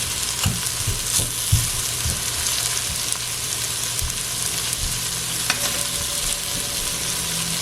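Sliced okra sizzling steadily in hot oil in a pot, with a spoon knocking and scraping in the pot as it is stirred, several knocks in the first two seconds and a couple more around four to five seconds in.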